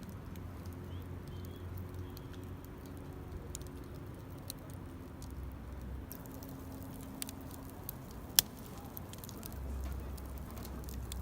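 Outdoor ambience: a steady low rumble with scattered small clicks, and one sharp click about eight seconds in.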